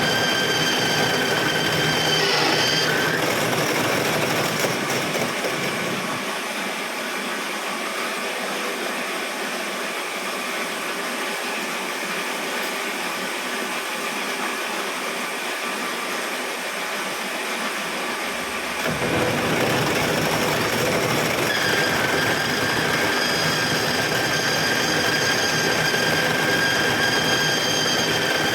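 A motor-driven machine works metal with steady, even noise. A high whine drops out about three seconds in and comes back near the end.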